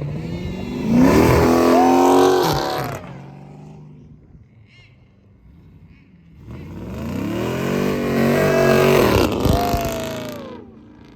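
Car engine revved hard twice, each rev climbing in pitch, holding near the top for a second or two, then dropping away.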